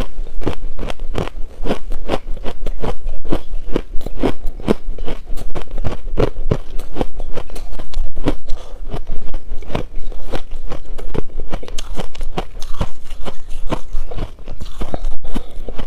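Shaved ice being bitten and chewed close to the microphone: a continuous run of crisp, loud crunches, about two to three a second.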